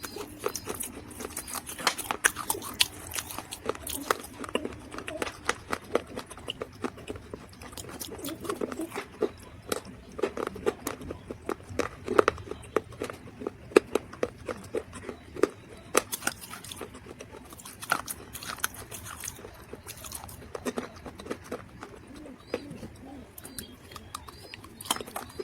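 Dry mud crunching and crackling close to the microphone: a dense, irregular run of sharp snaps and crackles, some louder than others.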